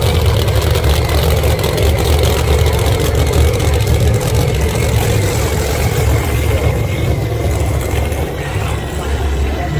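Drag racing car engines running loudly and steadily, a heavy, rapid rumble that holds its pitch and level throughout, with no clear run-up in revs.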